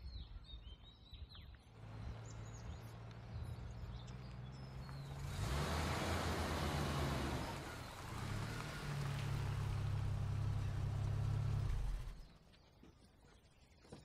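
A car engine running as the car drives up, louder in the middle, then stopping abruptly near the end. Birds chirp briefly at the start.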